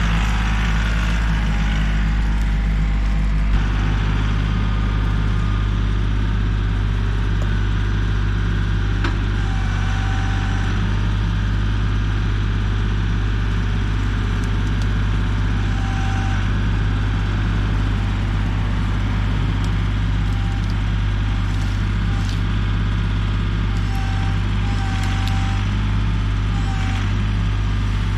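Kioti CK3510 compact tractor's three-cylinder diesel engine running steadily, with a small shift in its note about three and a half seconds in.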